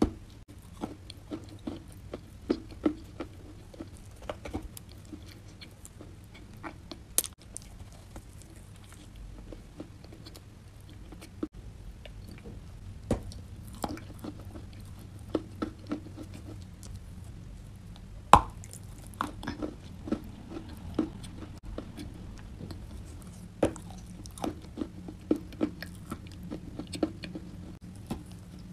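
Close-up biting and chewing of chalk and clay chunks coated in a creamy grey paste: irregular sharp crunches with chewing between them, one crunch much louder than the rest a little past halfway. A steady low hum runs underneath.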